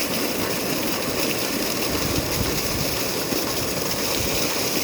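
Steady rush of flowing water, an even unbroken sound.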